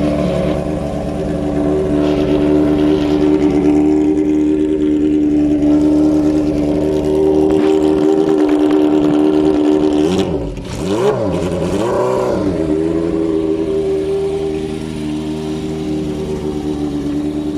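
1972 Honda motorcycle engine running steadily at a constant speed. About ten seconds in it is revved twice in quick blips, then settles back to the same steady note.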